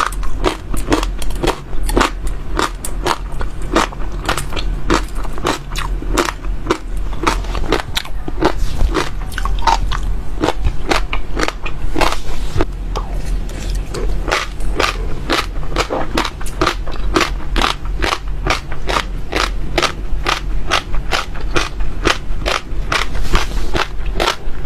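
Seeds being bitten and chewed close to the microphone: a continuous run of sharp, crisp cracks, about three a second.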